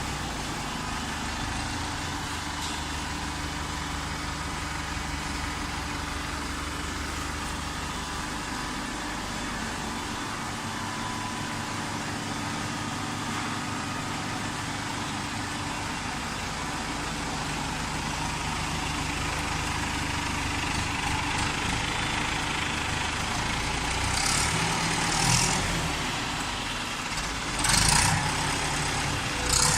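Automatic waste-paper baler running with a steady mechanical hum and low rumble. A couple of louder bursts of noise come near the end.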